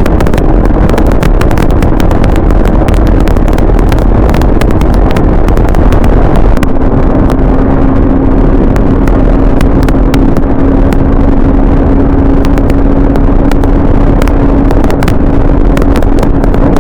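Motorcycle riding at a steady speed with heavy wind noise and crackling on the microphone. A steady engine note runs under the wind and drops slightly in pitch about six and a half seconds in, then holds.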